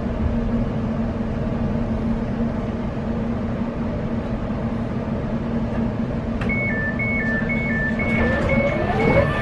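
Class 720 electric multiple unit standing at a platform, its equipment giving a steady hum with a low constant tone. About six and a half seconds in, the two-tone door-closing warning starts, high and low beeps alternating about twice a second, and a rising whine joins near the end.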